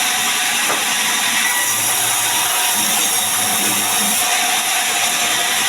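A power saw running steadily as it cuts mahogany timber into beams, under a loud, even hiss of heavy rain.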